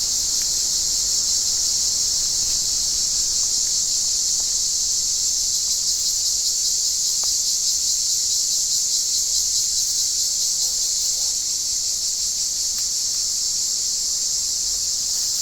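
Cicadas singing in a steady, unbroken, high-pitched buzzing chorus.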